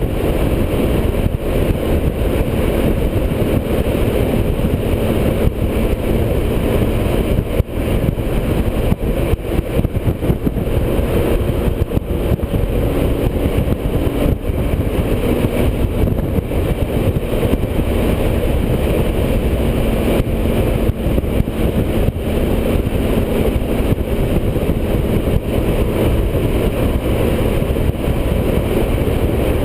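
Motorcycle cruising at highway speed: steady engine drone under loud, constant road and wind rush.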